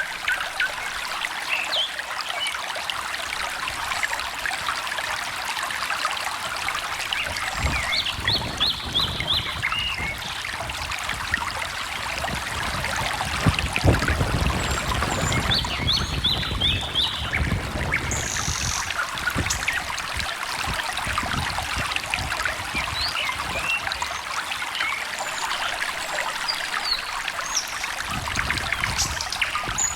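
Shallow stream running and trickling steadily, with small birds chirping over it and two short quick runs of notes about eight and sixteen seconds in.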